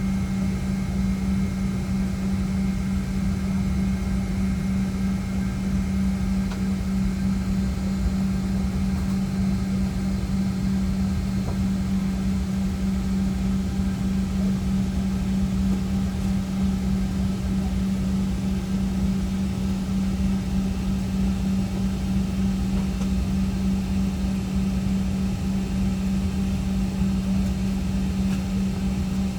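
Steady machinery drone of an airliner ramp during cargo unloading: a constant low hum over a rumbling noise bed that stays level throughout.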